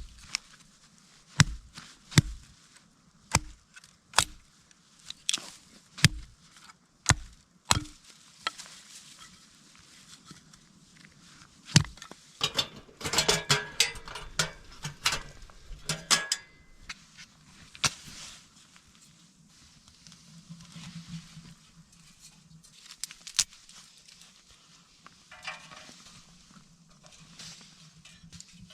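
Chopping: sharp knocks about one a second for the first eight seconds, then a busier stretch of crackling and handling noises, then sparse light clicks.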